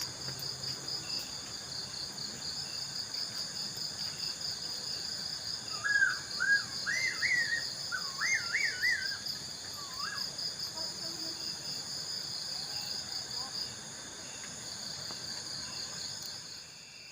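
An unidentified night-calling bird giving a quick run of warbling whistled notes that loop up and down in pitch about six seconds in, then a few fainter notes. Crickets chirp steadily throughout with a fast pulsing trill.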